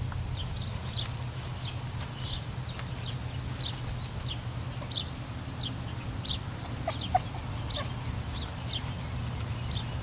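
A bird chirping over and over, short high notes about twice a second, with a steady low hum underneath.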